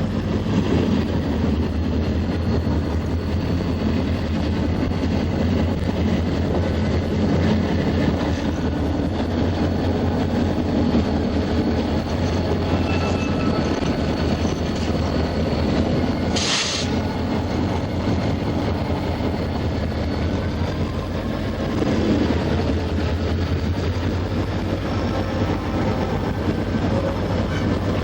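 Buffalo & Pittsburgh freight train rolling past with a steady rumble, a low hum and the clatter of wheels on the rails. A short hiss comes about sixteen seconds in.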